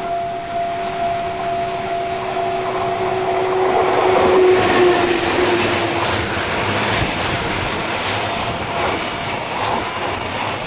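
A JR Freight container train hauled by an ED76 electric locomotive passes close by. The noise swells as the locomotive goes past about four to five seconds in, and a steady tone heard at first fades out then. After that the container wagons run by with a continuous rumble and the clickety-clack of their wheels over the rail joints.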